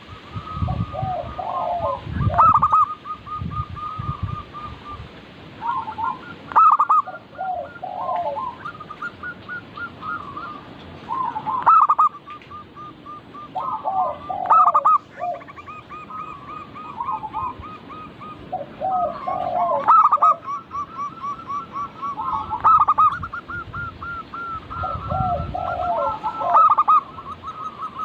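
Zebra doves (local perkutut) singing their cooing song: rapid trains of short coos alternating with lower rolling phrases, several birds overlapping, a new phrase every few seconds. A low rumble sits under the calls near the start and again near the end.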